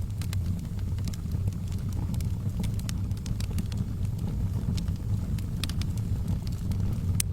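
Wood fire burning in a fireplace: a steady low rumble of flame with scattered sharp crackles and pops from the burning logs, the loudest pop near the end.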